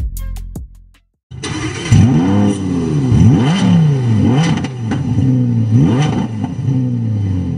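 A car engine revving hard, its pitch rising and falling again and again in quick throttle blips, with a few sharp pops between revs. Before it, music ends just after the start and there is a moment of silence.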